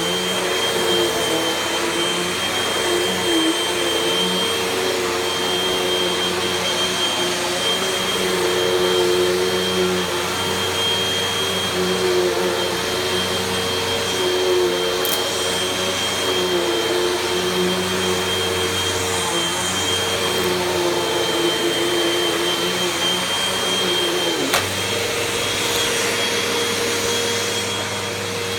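Vacuum cleaner running steadily while vacuuming carpet, its motor giving a constant high whine over a wavering lower hum. There is a sharp click about 24 seconds in, after which the low hum shifts a little.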